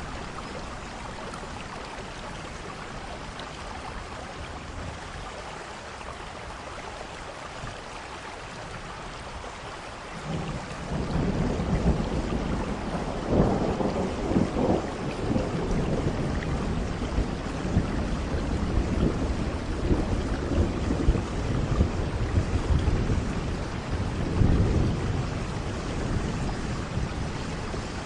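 Steady heavy rain, with thunder rolling in about a third of the way through and rumbling on in long swells through the rest.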